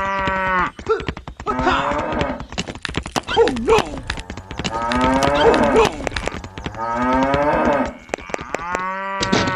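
Cow mooing again and again: about six drawn-out calls that rise and fall in pitch, with short sharp clicks between them.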